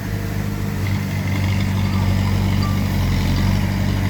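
Heavy earthmoving machine's diesel engine running steadily at a low, even pitch, getting a little louder about a second in.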